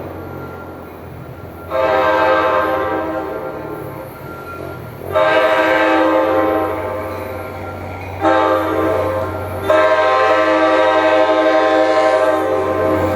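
Locomotive multi-chime air horn blowing long, long, short, long: the standard signal for a train approaching a grade crossing. The last blast is still sounding at the end.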